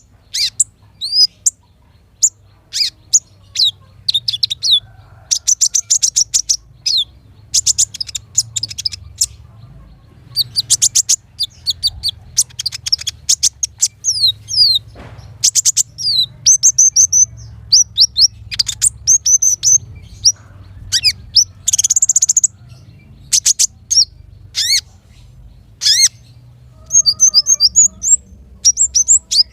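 Small songbirds singing in quick high-pitched phrases: rapid trills, chirps and fast sweeping whistles in bursts with short pauses between.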